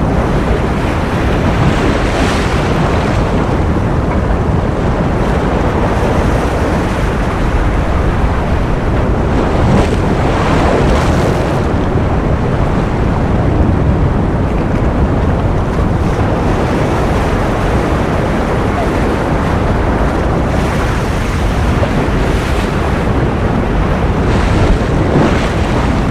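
Ocean surf: a steady, dense rush of waves, with a few swells that brighten and rise, about two seconds in, around ten seconds in, and near the end.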